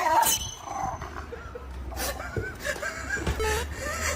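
A dog vocalizing in short calls, with people laughing.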